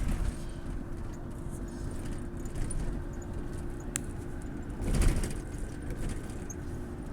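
Steady low vehicle rumble with a constant hum, heard from inside a car. A brief click about four seconds in and a louder thump just before five seconds.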